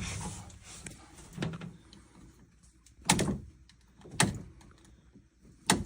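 A few separate sharp knocks and clunks, the loudest three coming about a second apart in the second half, from tools being handled on PEX pipe while the old expansion sleeve is cut off.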